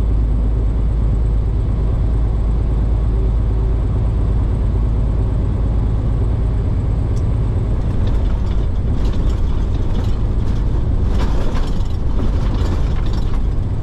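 Semi-truck engine and road noise heard inside the cab, a steady low drone, with scattered clicks and rattles in the second half.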